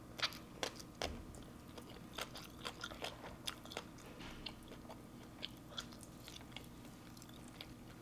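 A person chewing a mouthful of green papaya salad close to the microphone: irregular crisp crunches and wet mouth clicks, the sharpest in the first second.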